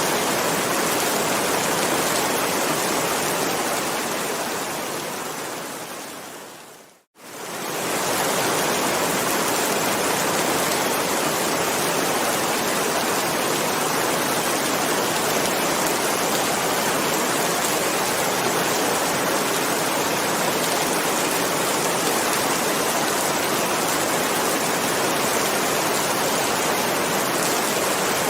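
Steady heavy rain, an even hiss. It fades out over a few seconds to a moment of silence about seven seconds in, then quickly fades back in, as at the loop point of a rain recording.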